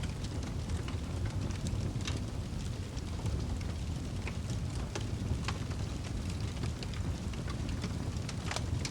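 Wood fire burning in a fireplace: a steady low roar with irregular sharp crackles and pops, one of them sharper near the end.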